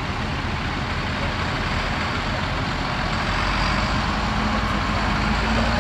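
Heavy diesel vehicle engine running steadily, its low note rising slightly and getting a little louder in the second half as it draws nearer.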